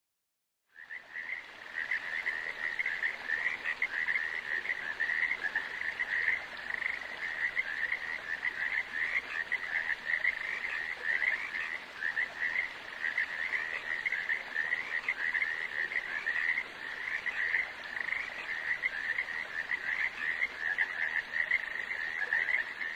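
A chorus of many frogs calling at once, a dense, steady pulsing chorus at a high pitch that fades in about a second in.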